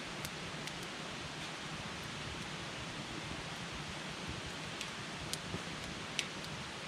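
Wood campfire burning: a steady hiss with a handful of sharp crackles and pops, the loudest about six seconds in.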